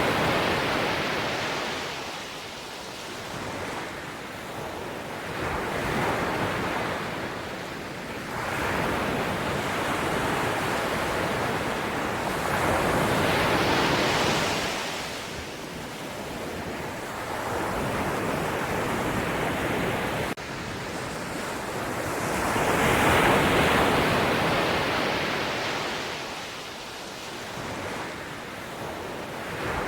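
Sea waves surging and receding, the wash of surf swelling and fading every four to six seconds.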